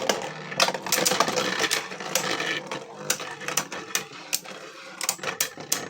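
Two Beyblade Burst spinning tops, Abyss Develos and Curse Satan, whirring in a plastic stadium and clashing over and over with sharp clicks and rattling hits.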